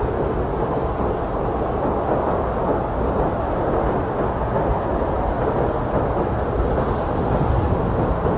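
Blizzard wind blowing steadily: a dense, even rushing noise with a deep low rumble and no whistling tones or gusts that stand out.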